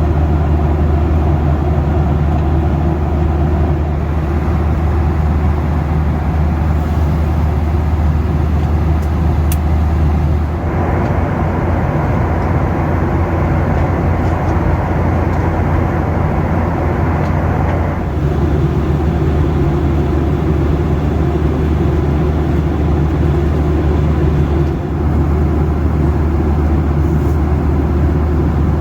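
Steady in-flight cabin noise of a Boeing 737 airliner: a loud low drone of engines and airflow with a broad hiss. For several seconds in the middle the hiss turns brighter and harsher, then settles back.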